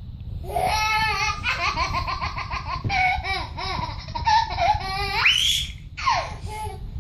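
A baby laughing in repeated bursts of giggles, with a sharp rising squeal about five seconds in.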